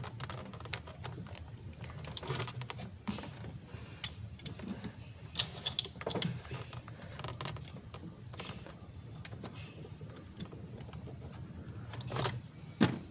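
Oil filter wrench being worked against the engine's oil filter to break it loose: irregular metal clicks and knocks, with a sharper knock near the end.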